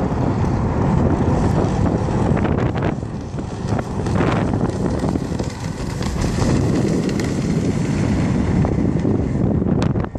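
Wind buffeting the microphone on a moving jet ski, over the watercraft's engine running steadily.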